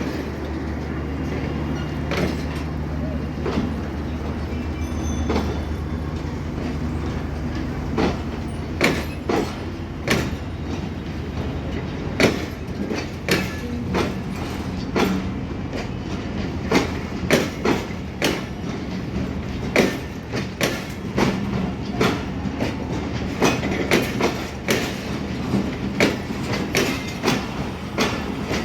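Passenger train passing. A diesel-electric locomotive's low steady engine drone runs for the first several seconds, then the coach wheels clatter over the rail joints, the clacks coming more and more often.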